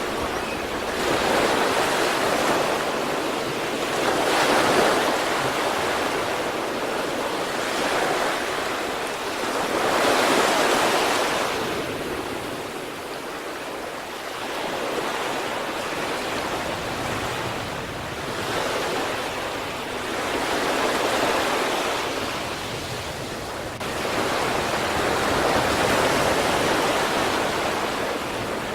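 Sea waves breaking and washing on the shore in slow swells, one surge every five or six seconds.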